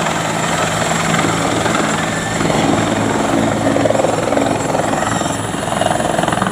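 Helicopter running, a loud, steady rapid chop of the rotor blades with a low engine hum underneath.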